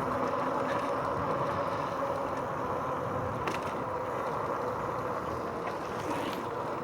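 RadRover 5 e-bike riding along on damp pavement: steady rolling tyre noise with wind on the microphone and a faint steady whine underneath, and a couple of faint clicks.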